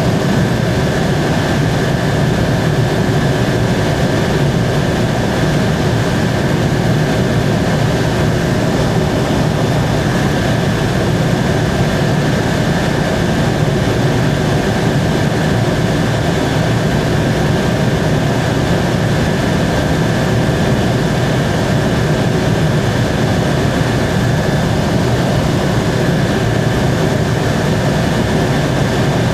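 Helicopter in steady cruise flight, heard from on board: engine and rotor running evenly, a constant low rumble with a steady high whine over it.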